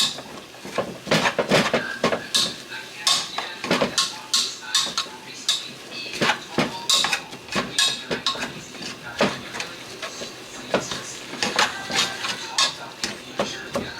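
A cooking utensil scraping and knocking against a pan in quick, irregular strokes while ground turkey is broken up as it browns.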